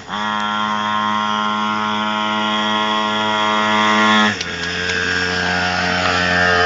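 Minibike's small engine running at steady high revs, its pitch creeping slightly upward. About four seconds in it drops suddenly to a lower steady note.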